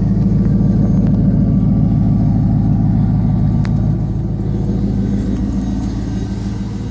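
1999 Chevrolet Camaro Z28's 5.7 L LS1 V8 idling through a Spintech muffler, still cold and warming up after a cold start. It is a steady, low, pulsing burble that eases a little quieter toward the end.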